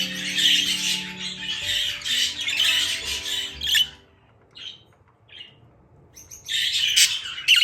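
English show budgerigars chattering and squawking, thinning to a few short calls around the middle before the chatter picks up again near the end. Music with held notes plays softly under the first half.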